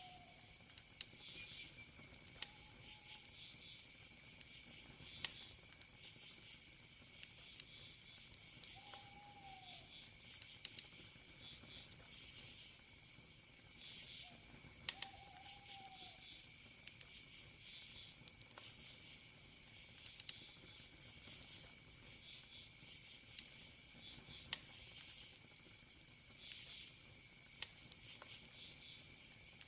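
Campfire wood crackling with scattered sharp pops over a steady chirping of crickets. A short, soft, low call rises and falls four times in the first half.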